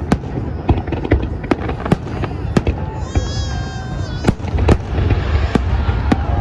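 Fireworks display: shells bursting in sharp bangs, about two a second and irregularly spaced, over a continuous low rumble.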